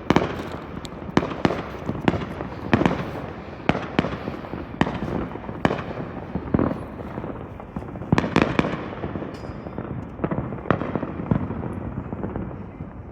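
Fireworks going off, a string of irregular sharp bangs about once a second, each with a short rolling echo, and a quick run of several bangs about eight seconds in.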